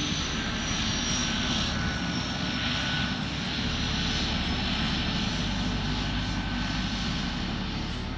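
Turboprop aircraft engine running steadily, with a thin high whine that drifts slowly lower.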